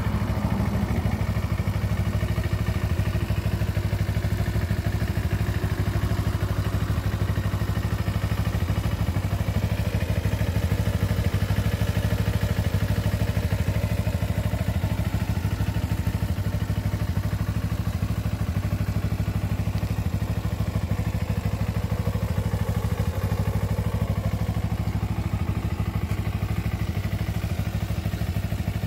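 Kawasaki Ninja 250R (EX250) parallel-twin engine idling steadily at an even level.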